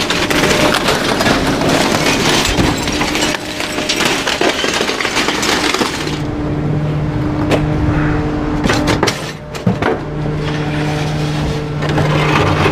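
Garbage truck packer crushing bulky waste, with wood and debris cracking and splintering. About six seconds in the dense crackling gives way to a steady low hum, still broken by scattered cracks.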